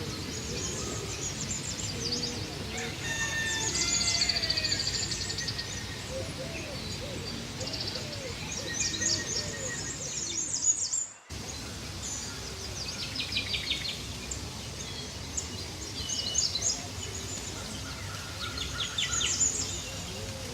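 Many small birds chirping and trilling in a mixed chorus over a steady low background hum, with the sound dropping out for a moment about halfway through.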